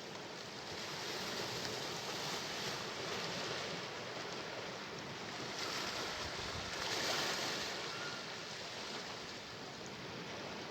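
Sea waves washing in, a continuous rush of surf that swells to its loudest about seven seconds in and then eases back.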